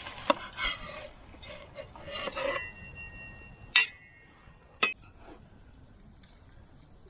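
Small clinks and knocks of hard camp items, one leaving a short ringing tone for about a second, followed by two sharp clicks.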